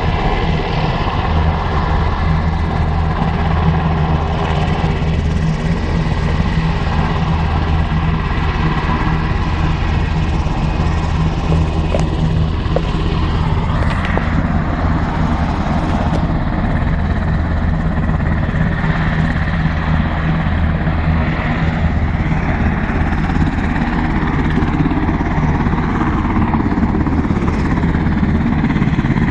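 Turbine aircraft of the Brazilian Air Force running steadily on the airfield: a loud, continuous drone with a deep steady hum that eases about two-thirds of the way through.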